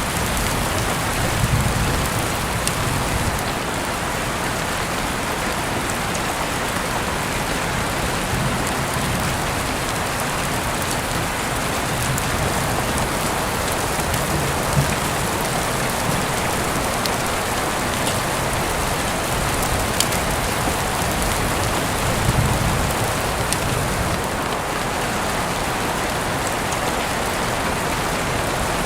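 Heavy rain falling steadily, a dense even hiss, with scattered sharper drop taps and a few brief louder low swells.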